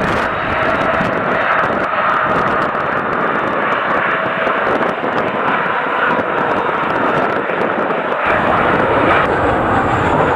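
Airliner jet engines running, a loud, steady rushing noise, with a deeper rumble joining about eight seconds in.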